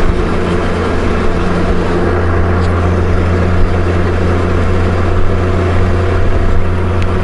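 Honda Gold Wing GL1500's flat-six engine running steadily while the motorcycle cruises, under a haze of wind and road noise.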